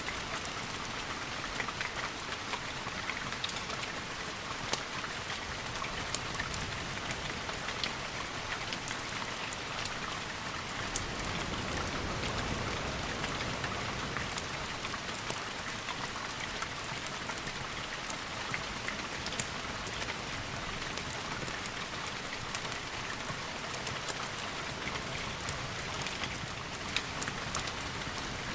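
Steady rain falling, an even hiss scattered with many small sharp ticks of drops.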